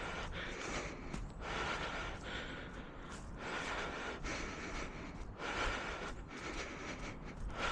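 A runner breathing hard while jogging, a steady cycle of noisy breaths in and out, about one a second.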